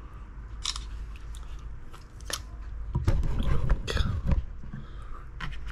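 A person eating: chewing with wet mouth sounds and scattered sharp clicks, busiest a little past halfway.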